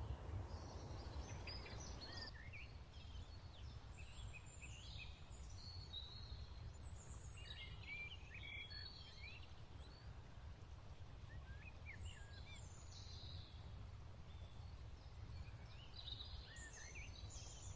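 Songbirds chirping and twittering faintly, with many short, scattered calls, some rising or falling in pitch, over a steady low rumble.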